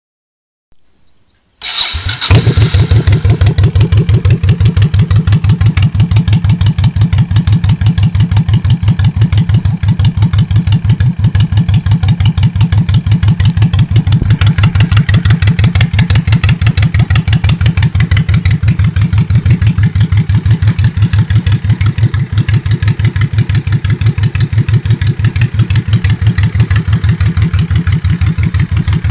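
Honda Shadow VT1100 V-twin on wrapped straight pipes with lollipop baffles, starting up about a second and a half in and then idling steadily with an even pulsing exhaust beat.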